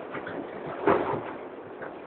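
Steady running noise inside a moving train car, with one short, louder sound about a second in.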